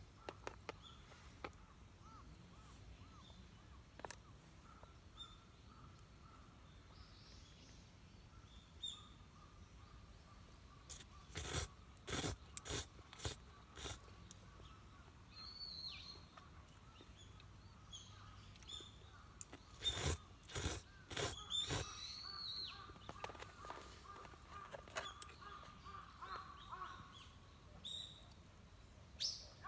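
Quiet outdoor ambience with scattered bird calls, broken twice by runs of sharp knocks and clatters, about a third of the way in and again about two-thirds in.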